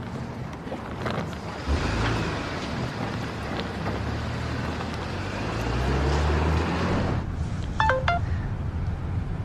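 A car engine pulling away, its pitch rising as it accelerates, then cut off sharply. A few seconds later comes a brief run of short electronic beeping tones.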